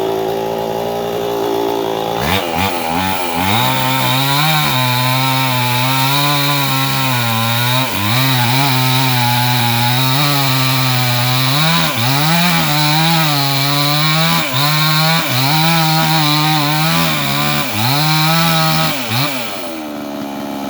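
Two-stroke chainsaw cutting into a tree. About two seconds in the engine note drops as the chain bites, and it keeps sagging and recovering under the load of the cut. Near the end the engine eases off.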